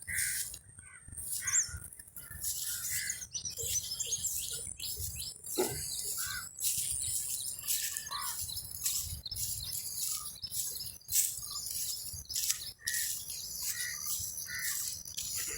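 Several birds chirping and calling, many short high calls overlapping.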